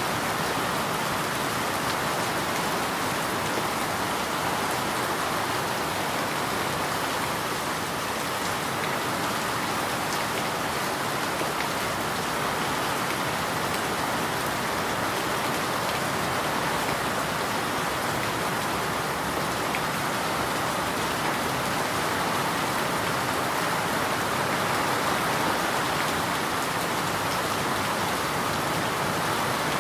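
Steady rain falling on a surface, an even hiss of many drops with a few sharper drips standing out now and then.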